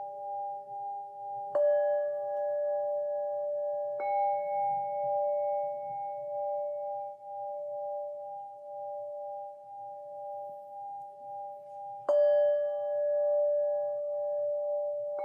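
Singing bowls ringing in long, overlapping tones that waver with a slow pulsing beat. Three fresh strikes come at about one and a half seconds, four seconds and twelve seconds, and each one briefly adds a brighter ring above the sustained hum.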